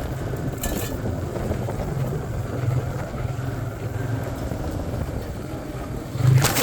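Motorcycle engine running at low speed over a rocky track, with wind on the microphone. A louder knock comes about six seconds in.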